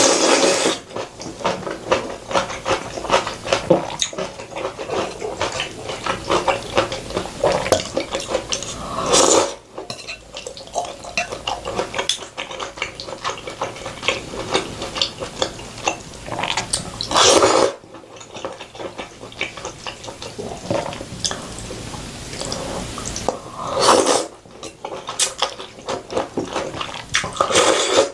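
Eating sounds: utensils clicking and tapping against bowls and dishes, with the small noises of eating. There are three louder, longer bursts, roughly every seven to eight seconds.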